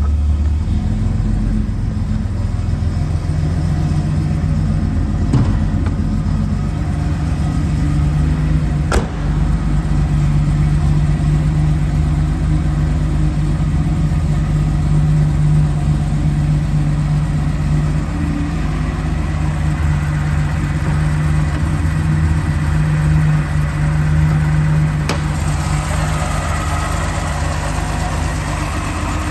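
1977 Datsun 280Z's 2.8-litre straight-six idling steadily just after a cold start, with one sharp click about nine seconds in.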